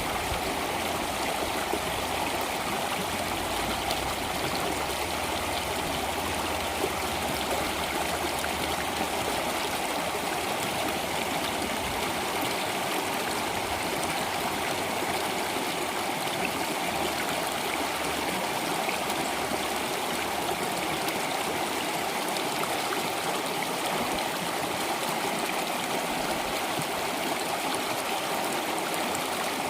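Flowing water running steadily, an even rush that does not change.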